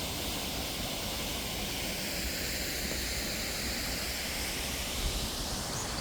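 Steady rushing hiss of a plaza fountain's water jets splashing into the basin. A few short, high bird chirps come in near the end.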